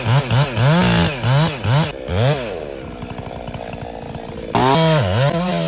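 Two-stroke chainsaw being revved: the throttle is blipped up and down about five times in quick succession, then it drops back to a lower, quieter running. About four and a half seconds in it is revved up again and held at high speed.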